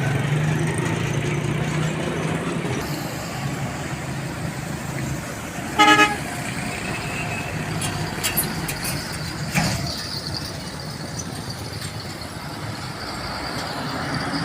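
Road traffic with a steady low engine drone, and a single short vehicle horn blast about six seconds in, the loudest sound. A few sharp clicks or knocks follow a couple of seconds later.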